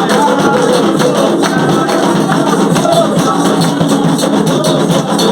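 A Candomblé chant for Xangô sung over steady hand percussion with jingling, tambourine-like strokes.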